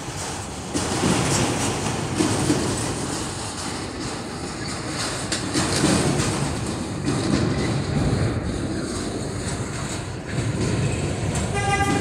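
Freight train of autorack cars rolling past, a steady rumble of steel wheels on rail. A short horn toot sounds near the end.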